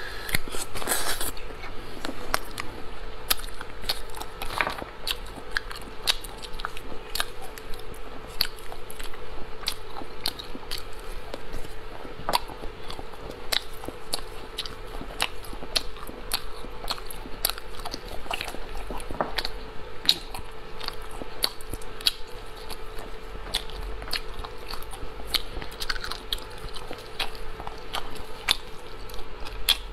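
Close-miked mouth chewing and biting on pieces of shellfish meat in chili sauce: a steady run of wet, crunchy clicks, several a second, over a faint steady hum.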